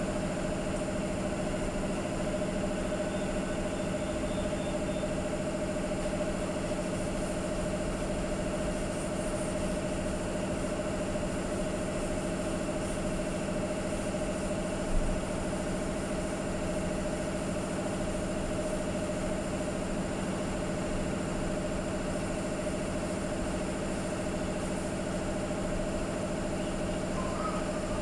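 Steady mechanical hum of a running motor with fixed tones throughout, and one brief knock about halfway.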